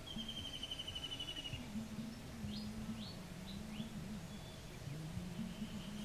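Birds calling outdoors: a fast, high trill for the first second and a half, then a few short rising chirps, over a low wavering drone.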